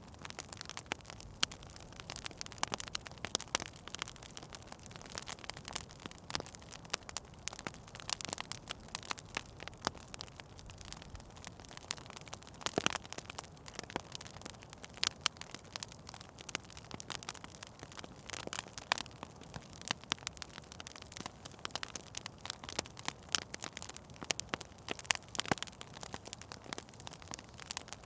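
Fire crackling in a fireplace: frequent, irregular sharp pops and snaps over a soft steady hiss.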